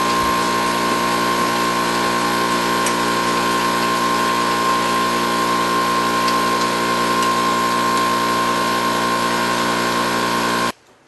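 A machine running at a constant speed: a loud, steady hum with a high whine over a hiss, which cuts off abruptly near the end.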